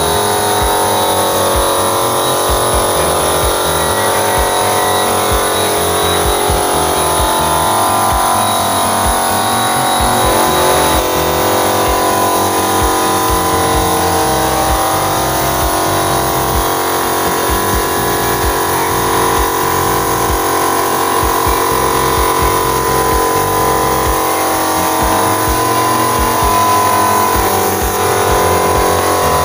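Small airbrush air compressor running steadily, a constant motor hum under the hiss of the airbrush spraying.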